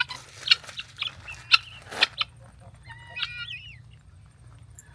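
A run of sharp taps or clicks over the first couple of seconds, then a bird chirping and warbling briefly about three seconds in.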